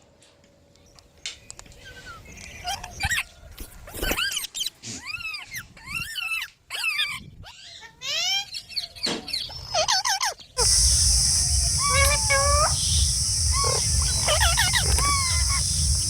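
Green parrots giving a string of short, harsh screeching calls, each one arching up and down in pitch. About ten seconds in, the background changes abruptly to a steady high buzz of insects and a low rumble, and the parrot calls continue over it.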